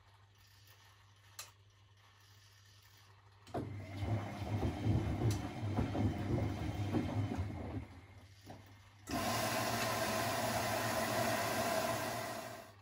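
Privileg 3001 S washing machine, a Zanussi build, with water rushing in two spells. The first is rough and gurgling with a deep low end. After a short break the second is a steady, even hiss that stops near the end.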